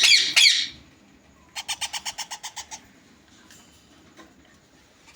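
Ringneck parakeet chicks calling: a loud, harsh burst of squawks at the start, then a train of rapid, evenly repeated chirps at about ten a second, which stops before the three-second mark.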